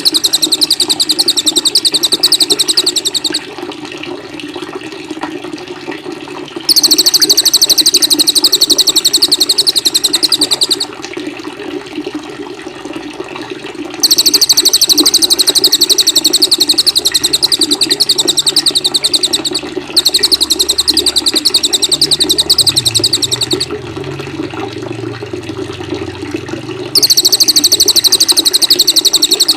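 Songbird trilling in five fast, high-pitched bouts of a few seconds each, with short pauses between, over a steady sound of running water.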